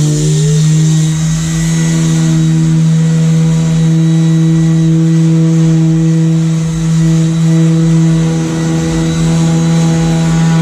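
Electric disc sander running steadily at full speed while sanding a boat hull, a loud, even motor hum.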